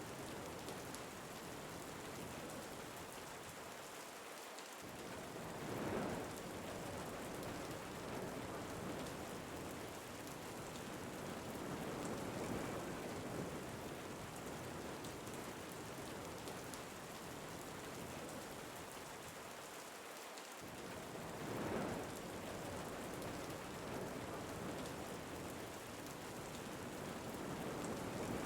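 Steady rain falling, a continuous hiss that swells louder twice.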